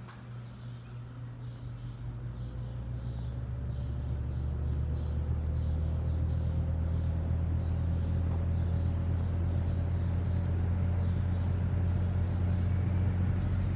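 Lasko Air King box fan, fitted with a non-original motor, running on low: a low motor hum grows louder over the first five seconds or so as the fan comes up to speed, then holds steady. Birds chirp intermittently in the background.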